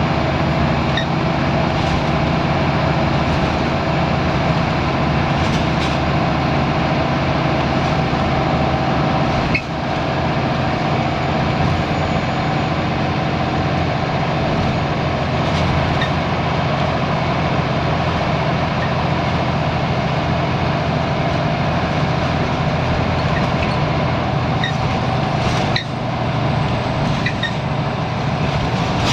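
Scania L94UB Wright Solar single-deck bus engine running steadily under way, with a continuous low drone. Its loudness dips suddenly twice, once about a third of the way in and once near the end.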